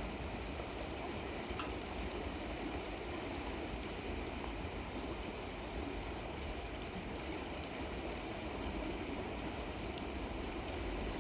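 Steady rush of flowing river water, with a few faint sharp clicks.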